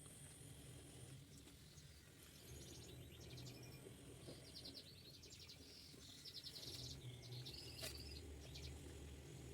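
Faint, rapid bird chirping in several short runs over a low background hum, with one sharp click about eight seconds in.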